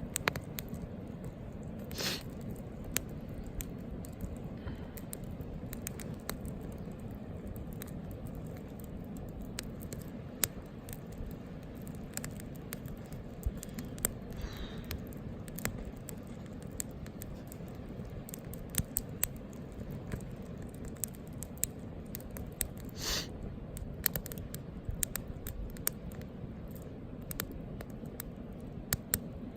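Wood campfire crackling: scattered sharp pops and snaps over a steady low rumble of burning. Two longer, louder bursts come about two seconds in and again about three-quarters of the way through.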